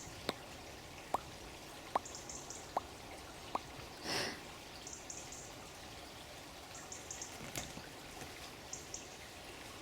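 Water dripping: five clear single drops falling a little under a second apart, then a brief soft rush of noise just after the middle. Faint, very high bird chirps come and go over a steady background hiss.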